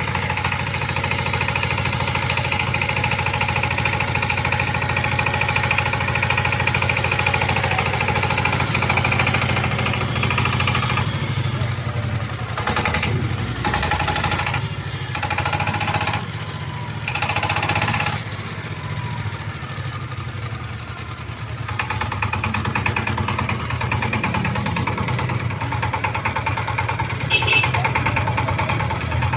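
Sifang SH14N 14 hp single-cylinder diesel engine running steadily. From about eleven to twenty-two seconds in, its sound changes in uneven blocks before settling back to the steady run.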